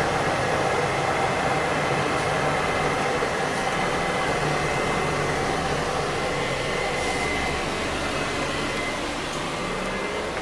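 Scania OmniLink CL94UB city bus under way, heard inside the cabin: a steady mix of engine and road noise with a thin high whine, easing slightly toward the end.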